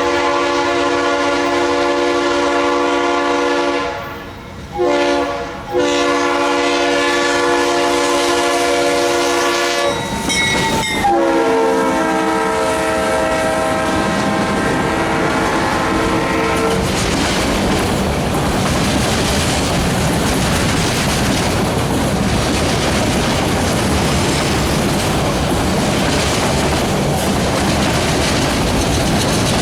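Freight locomotive air horn sounding as the train passes: a long blast, a short one, then a long held blast whose chord drops in pitch as the locomotive goes by. After the horn stops the train rolls past with steady wheel clatter over the rail joints.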